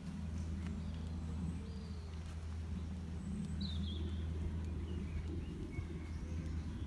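Outdoor ambience: a steady low rumble with a few faint, scattered bird chirps over it.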